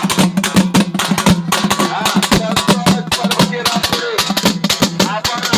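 Fast live drumming, with rapid strokes packed close together, under a wavering melody line and a steady low drone.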